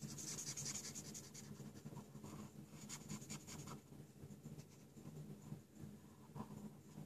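Felt-tip marker stroking back and forth on cardstock while colouring in: faint, repeated scratchy strokes, over a steady low hum.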